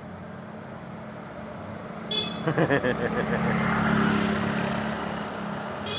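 A heavy truck driving past with its engine running. Its horn gives a few quick toots about two seconds in, and the sound is loudest around four seconds as the truck passes, then fades.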